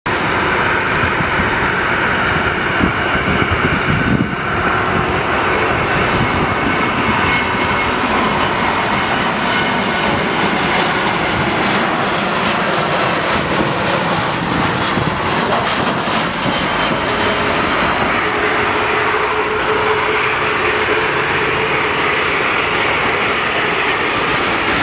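Boeing 737-400 freighter's CFM56 jet engines running steadily on its landing at Vnukovo, a constant rushing noise with thin whining tones over it.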